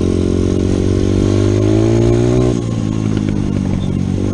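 Dirt bike engine accelerating, its pitch rising steadily for about two and a half seconds, then dropping suddenly as the throttle is let off or a gear is changed, running rougher and lower afterwards.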